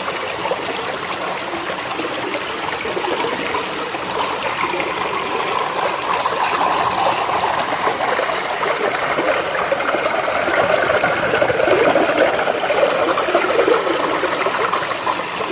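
Fast water in a small stream running steadily, a continuous splashing water noise that grows a little louder after about six seconds.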